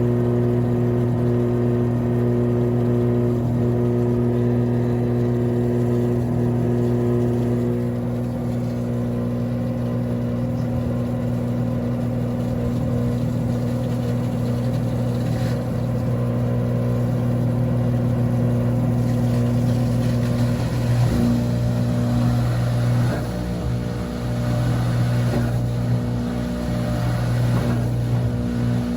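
Washing machine spinning with a loud, steady humming drone from worn drum bearings, damaged by water leaking past the tub seal. The hum wavers and grows rougher in the last several seconds.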